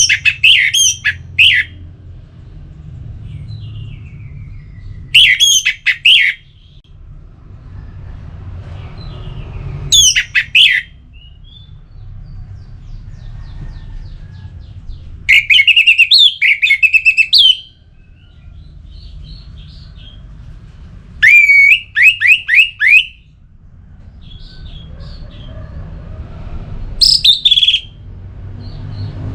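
Orange-headed thrush singing short, loud phrases of quick whistled notes: six bursts, about five seconds apart, over a low steady background rumble.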